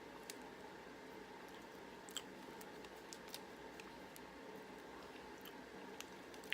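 Faint chewing of a soft nougat-and-caramel chocolate bar: a few scattered small mouth clicks over a steady low room hum.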